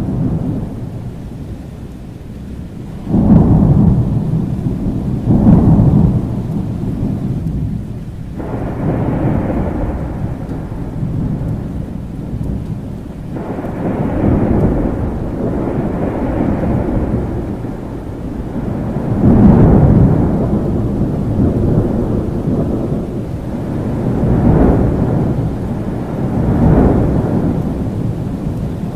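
Thunderstorm: steady rain with rolling thunder, the rumbles swelling and fading over and over, the loudest cracks and rolls about three, five and twenty seconds in.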